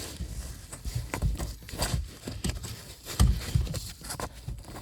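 Irregular knocks, clicks and low thumps of metal car parts and tools being handled while a steering rack's pinion and cover are worked into place.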